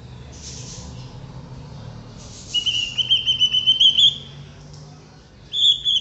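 Pet cockatiel whistling its song in two quick warbling phrases. The first comes about two and a half seconds in and rises slightly in pitch; the second starts near the end.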